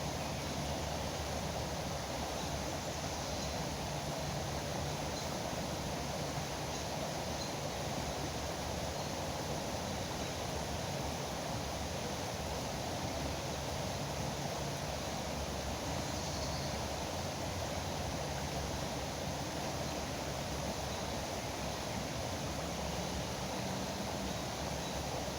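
Steady rushing of flowing river water, an even noise that holds at the same level throughout.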